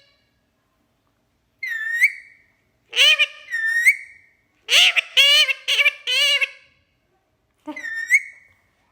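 Pet green Indian parrot (rose-ringed parakeet) giving high-pitched, speech-like chattering calls in four short bursts, with pitch glides and an upward flick at the end of several calls.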